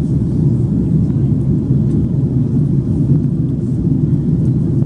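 Steady low rumble of an Airbus A330-300 heard from inside the passenger cabin: engine and airflow noise.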